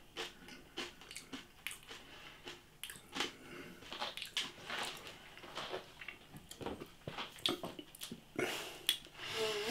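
Faint, irregular crunching and chewing of a mouthful of crispy jalapeño pork scratchings (pork rinds).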